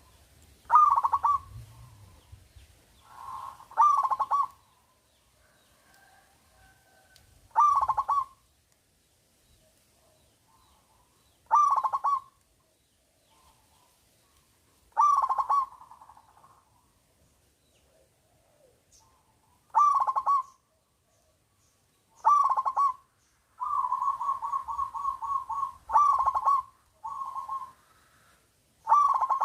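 Local zebra dove (perkutut) cooing: short rolling coo phrases about every four seconds, coming closer together near the end, with one longer run of quick repeated notes a little over two-thirds of the way in.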